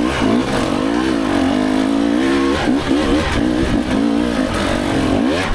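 Dirt bike engine revving up and down through a tight switchback, its pitch rising and falling over and over as the throttle is blipped.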